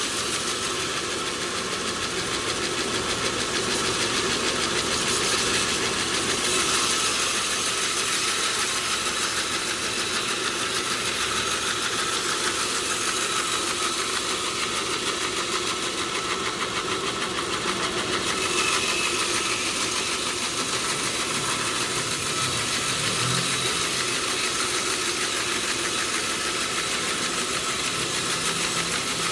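Sawmill machinery running steadily, a continuous mechanical noise with a faint steady high hum.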